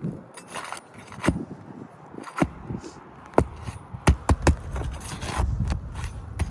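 Hammer and flat pry bar working on roof shingles: scraping with a series of sharp knocks, several in quick succession about four seconds in.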